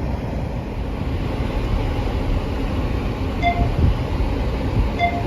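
Steady low rumble of a car moving on a snow-covered road, heard from inside the cabin. Two short high beeps come about three and a half seconds in and again near the end.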